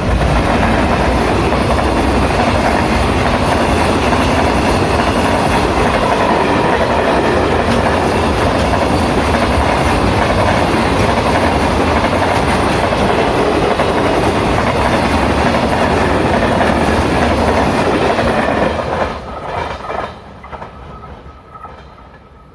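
Long freight train of container wagons, hauled by an EF510 electric locomotive, passing at speed close by: a loud steady rumble and rattle of wheels on rail. About nineteen seconds in the noise drops off with a few clacks as the last wagons pass, leaving a fading rumble.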